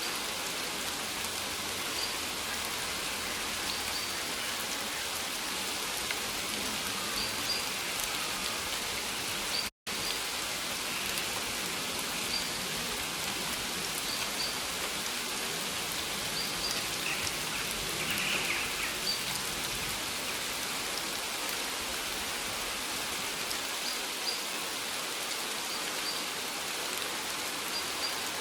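Steady rain falling in a dense even hiss, with a faint short high chirp repeating about every two seconds. The sound drops out completely for an instant about ten seconds in.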